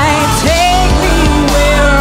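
Electro-pop band playing live: a sung lead vocal melody over steady synth bass.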